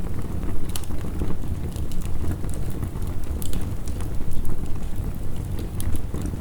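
Heavy rain as a steady low rumbling wash, mixed with a wood fire crackling in scattered sharp pops.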